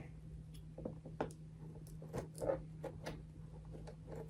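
Scissors and hands working at a taped cardboard box: scattered small clicks, snips and scrapes at irregular intervals.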